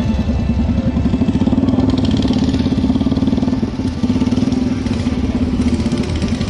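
Motorcycle engine running steadily with rapid, even firing pulses. It dips briefly about four seconds in.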